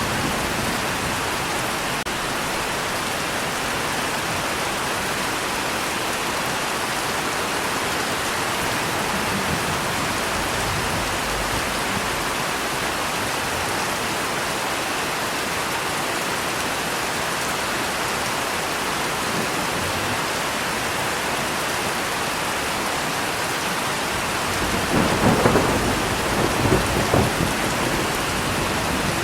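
Steady heavy rain hissing, with a roll of thunder near the end that rumbles and crackles for about three seconds.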